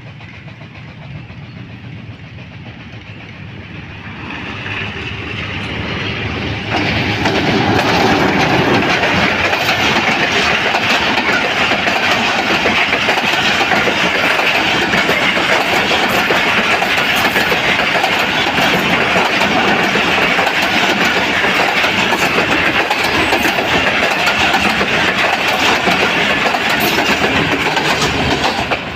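Diesel-hauled passenger train approaching and passing close by. The locomotive grows louder over the first several seconds, then the coaches' wheels make a loud, steady rolling clatter on the rails as the carriages go past. The sound drops off as the last coach clears.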